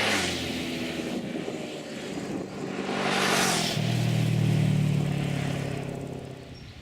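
Motor vehicles passing close by: a rushing sweep at the start and another about three seconds in, with an engine hum falling in pitch after the first. A strong engine hum follows the second and fades away near the end.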